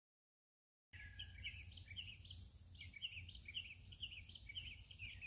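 Total silence for about the first second, then faint outdoor ambience: a bird chirping over and over in quick short notes, with a steady low hum underneath.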